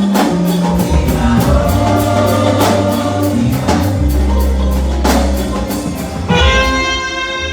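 Live gospel worship music: a band with deep bass, drums keeping a steady hi-hat pulse, and singing. About six seconds in, a single long held note comes in over the band.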